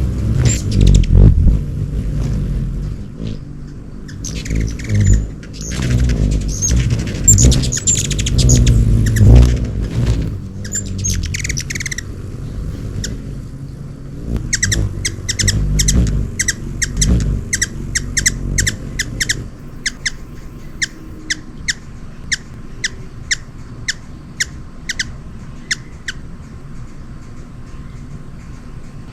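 Hummingbirds chirping, over a low rumble through the first two-thirds. From about halfway in comes a steady run of short, sharp chip notes, about two a second, which thins out near the end.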